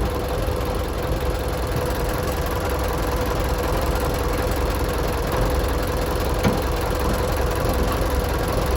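Tractor engine idling steadily, with a constant hum.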